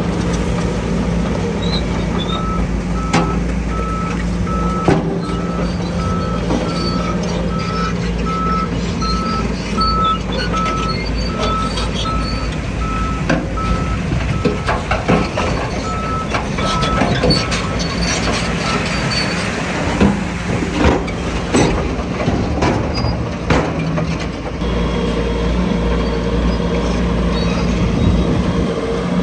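Reversing alarm beeping at a steady even rate for most of the first two-thirds, over the steady running of a heavy diesel machine. Scattered sharp clanks and knocks, thickest in the middle and latter part.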